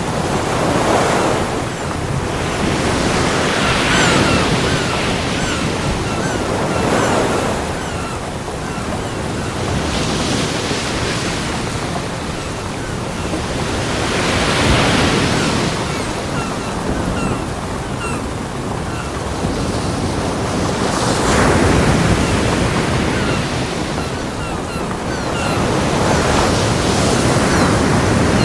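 Ocean waves breaking on a beach: a steady wash of surf that swells into a louder crash every three to six seconds.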